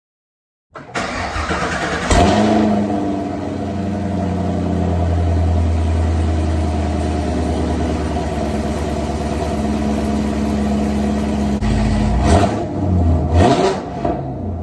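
Chevrolet Camaro SS's 6.2-litre LT1 V8, with a Holley Hi-Ram intake and 2-inch headers, cranking and catching on a cold start with a sharp flare, then settling into a steady fast idle. Near the end it is revved twice briefly.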